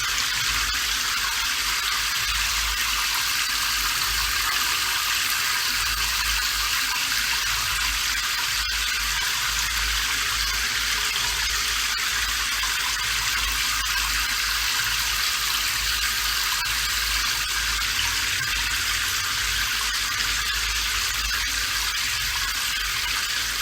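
Steady rain falling: an even, unbroken hiss over a low rumble.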